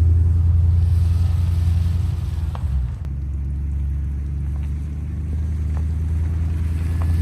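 Steady low rumble of a vehicle on the move, with a brief dip about three seconds in and a few faint ticks.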